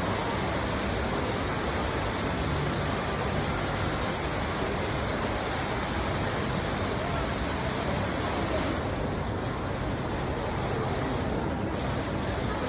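Tall indoor man-made waterfall: a steady, even rush of falling water.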